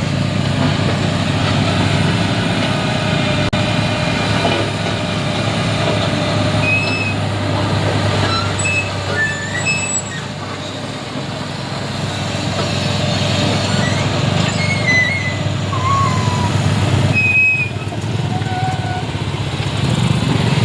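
Heavy diesel engines running steadily at the road works, with short high-pitched chirps or squeaks scattered through.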